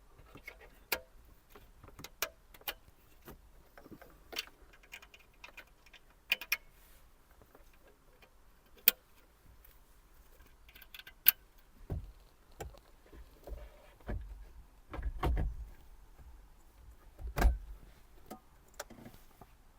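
Scattered sharp clicks and knocks of hands handling a car stereo head unit and its wiring, with a few heavier dull thumps in the second half.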